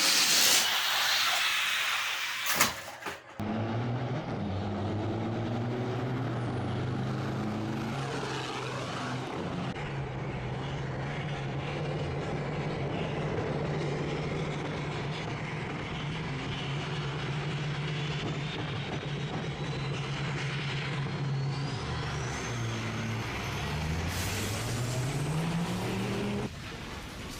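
Semi-truck sound effect: a loud air-brake hiss, then a big truck engine revving up through the gears. The engine holds a steady pitch for a long stretch and climbs again near the end.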